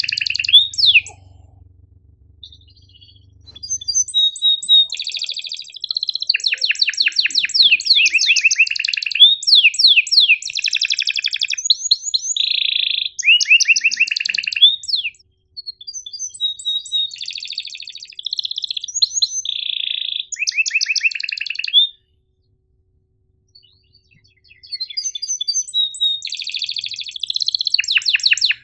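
Domestic canary singing a long song of rapid rolling trills and sharp chirps in phrases, with a pause of about two seconds before a last phrase near the end.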